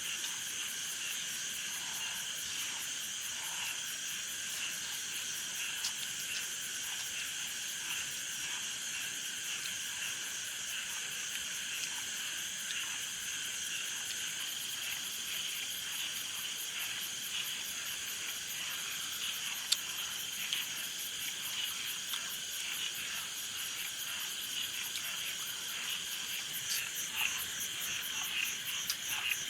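Chorus of frogs and insects trilling without a break. There is one sharp click a little after two-thirds of the way through.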